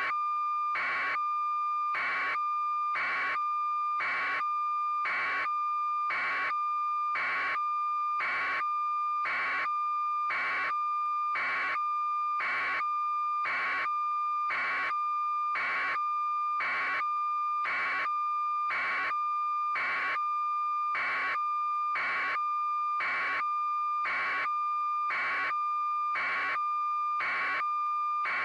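A steady electronic tone of about 1 kHz, interrupted by a buzzy beep about once a second at an even rhythm.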